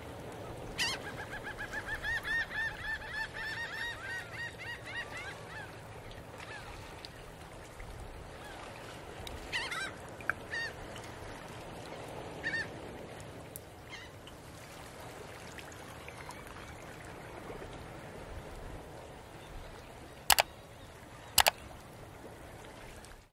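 Bird calls: a fast run of repeated calls, about three a second, for several seconds near the start, then a few scattered calls. Two sharp clicks near the end are the loudest sounds.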